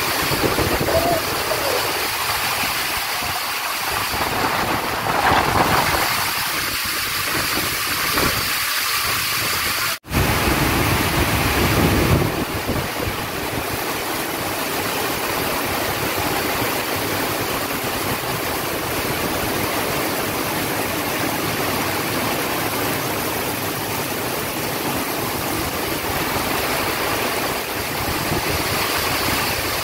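Heavy rain falling steadily in a downpour, with a brief dropout about ten seconds in.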